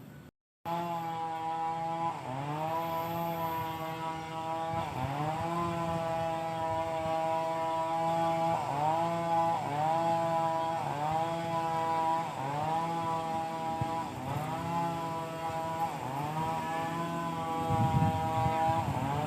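Small two-stroke engine running at high speed under repeated load, its pitch dipping and recovering about every second and a half, with a low thud near the end.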